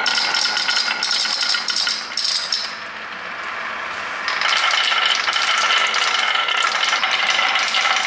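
Continuous rattling clatter of small hard objects, with a faint ringing. It dips quieter for a stretch about two seconds in, then grows louder again about halfway through.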